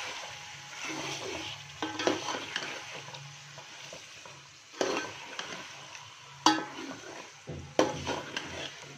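Chicken and tomato pieces sizzling in hot oil in a metal pot while a steel spoon stirs them, with a few sharp knocks of the spoon against the pot in the second half.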